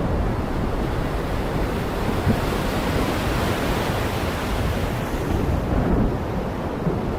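Heavy rain pouring steadily: a dense, even hiss with a deep rumble underneath, brighter in the middle and duller near the end.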